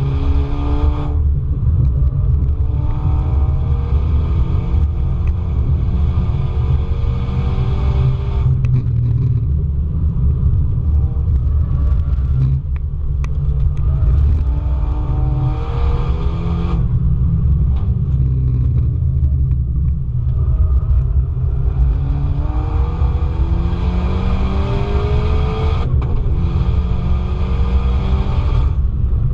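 Car engine heard onboard at full throttle on a race track, its note climbing again and again through the gears and cutting off sharply about four times as the throttle is lifted, over a heavy low rumble of wind and road noise.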